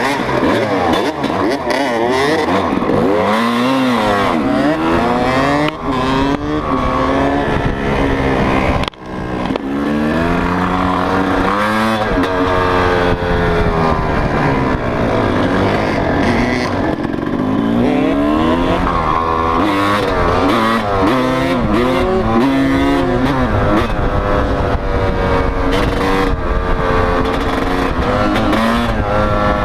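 Motocross dirt bike engines revving hard and easing off over and over as they are ridden, the pitch climbing and dropping with each shift and throttle change. The sound drops out briefly about nine seconds in.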